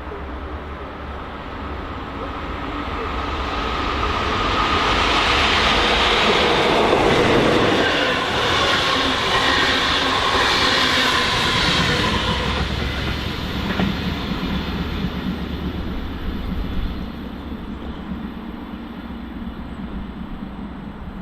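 A train passing by on the track: it grows louder over the first few seconds, is loudest around the middle, and fades away in the second half.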